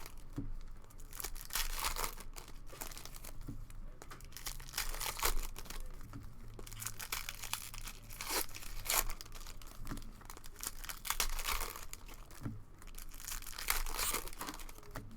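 Cellophane wrappers of trading-card packs crinkling and tearing in irregular bursts as packs are opened and handled.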